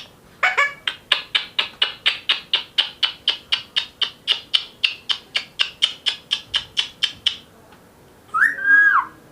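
Ringneck parakeet giving a fast, even run of short shrill calls, about four a second, for some seven seconds. Near the end a loud whistle slides up and down in pitch.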